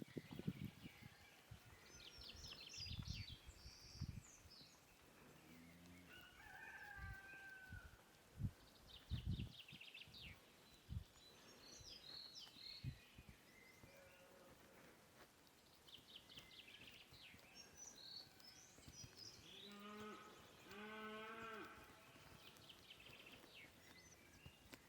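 Faint outdoor ambience with small birds chirping and trilling, a few low thuds, and an animal bleating with a wavering pitch, in two parts, about twenty seconds in.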